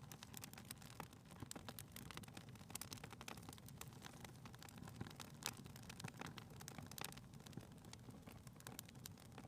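Faint crackling of a wood fire in a fireplace: scattered sharp pops and crackles over a low, steady rumble.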